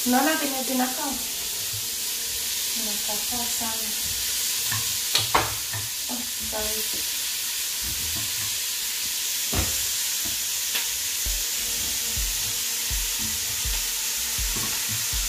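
Pork ribs and onions sizzling in a steel pot, a steady frying hiss, with a few sharp clacks of metal tongs against the pot as the ribs go back in.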